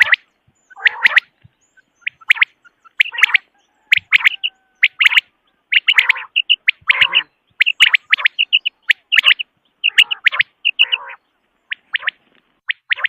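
Quail (batair) calling over and over, the kind of quail voice played to lure birds for hunting: short, sharp notes in quick groups, some with a lower, rougher note under them.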